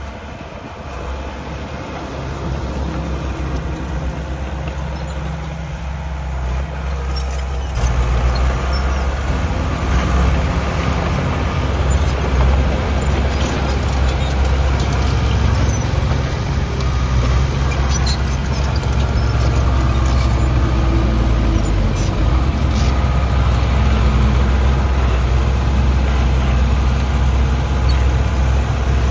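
Diesel engine of heavy earthmoving machinery running steadily. It gets clearly louder about eight seconds in, with scattered light metallic clinks over it.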